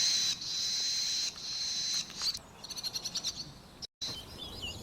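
Barn owl calls: a long, high, harsh hiss, broken briefly twice, that stops a little after two seconds, followed by a fast run of high chirps and faint chirps near the end.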